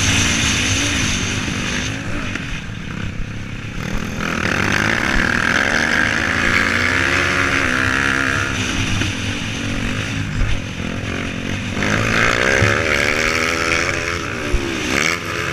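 Motocross bikes racing past. Their engines rise and fall in pitch as the riders accelerate and shift, with louder surges from about four to eight seconds in and again about twelve seconds in.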